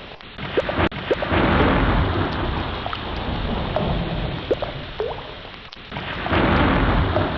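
Ocean surf rushing and swelling, two waves surging and falling back, with a deep rumble underneath and a few short rising chirps now and then.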